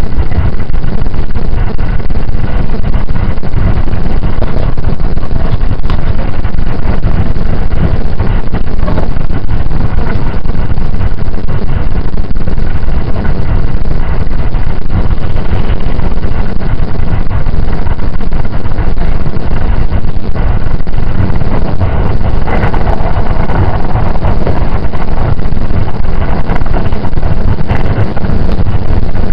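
Inside the passenger cabin of a JR 681 series electric limited express train as it runs: a loud, steady low rumble of the wheels and running gear on the rails.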